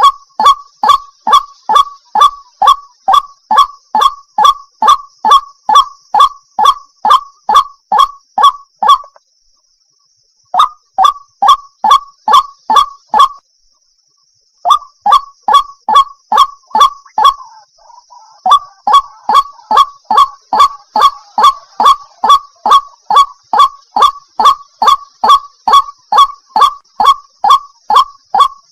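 A water hen calling in a long, rapid, even series of short honking notes, about three a second. The series breaks off briefly twice, about nine and thirteen seconds in, then resumes.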